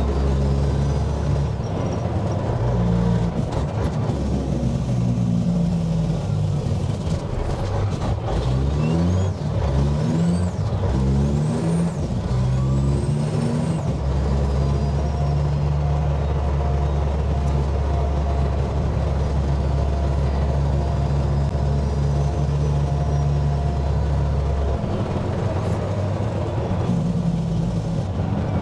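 Dump truck's diesel engine heard from inside the cab while driving: it climbs in pitch through several gear changes over the first half, then runs steady at cruising speed. A faint high whistle rises and falls a few times while it is pulling.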